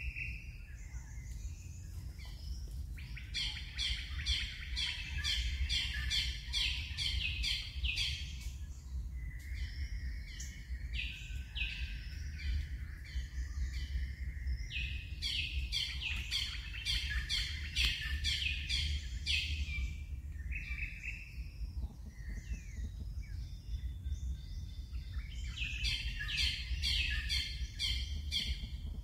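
Birds calling in the trees: rapid runs of high chirps in three long bouts with scattered single calls between, over a steady low rumble.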